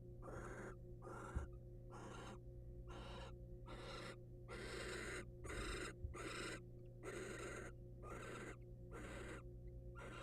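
Barn owl giving a rhythmic series of hissing, snore-like calls, about two a second, the begging call barn owls make when food is brought to the nest. A steady low electrical hum runs underneath.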